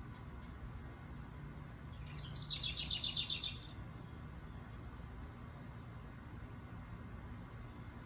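A bird sings a rapid trill of evenly repeated high notes for about a second and a half, starting about two seconds in, over a steady low rumble of distant traffic.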